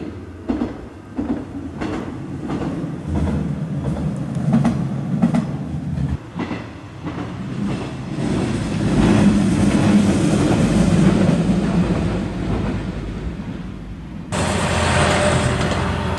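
Single-car diesel railcar running along a viaduct, its wheels clacking over the rail joints under a low rumble, then growing into a louder steady rumble as it passes. Near the end the sound jumps abruptly to a different hiss.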